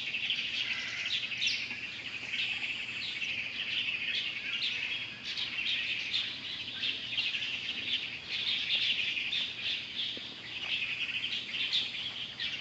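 Many small birds chirping continuously, a dense stream of short, high overlapping calls.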